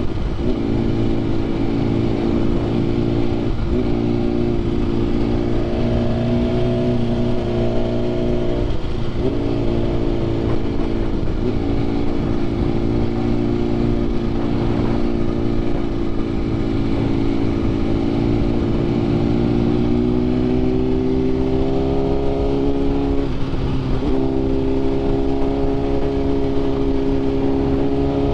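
BMW S1000RR inline-four with an SC Projects CRT exhaust and Arrow titanium headers, running at a steady cruising speed. The engine note dips briefly several times and rises slightly in pitch past the middle.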